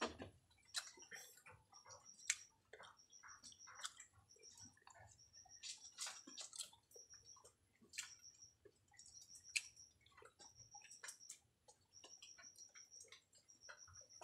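A person chewing raw honeycomb close to the microphone, with faint, irregular wet clicks and smacks of the mouth.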